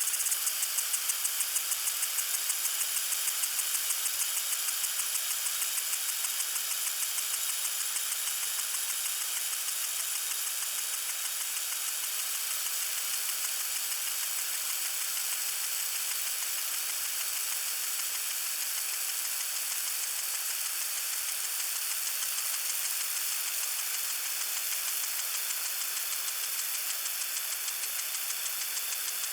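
Lawn sprinkler spraying water: a steady hiss with a fast, even ticking of about four beats a second, strongest in the first few seconds and then settling.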